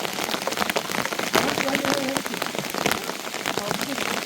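Heavy rain falling, with a dense, steady stream of individual drops hitting nearby surfaces.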